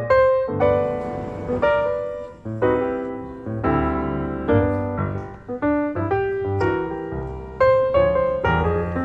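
Background music led by piano: a steady run of chords and melody notes, each struck and left to ring.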